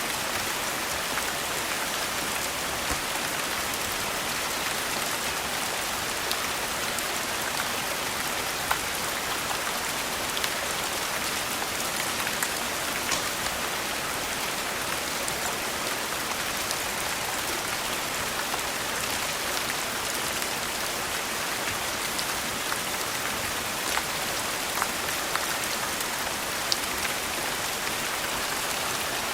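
Steady rain falling, an even hiss with scattered sharp ticks and taps.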